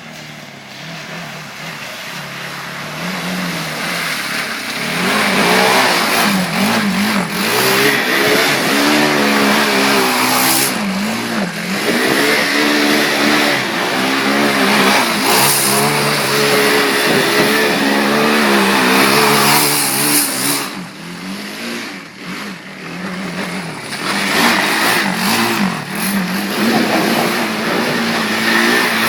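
Arctic Cat DVX 400 quad's single-cylinder four-stroke engine revving hard while spinning donuts in mud, its pitch swinging up and down over and over. The revs drop back briefly about three quarters of the way through, then rise again.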